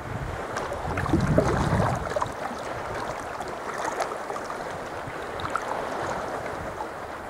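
Sea water lapping and splashing around a sea kayak, with small drips and slaps and wind on the microphone; a louder rumble of wind comes about a second in.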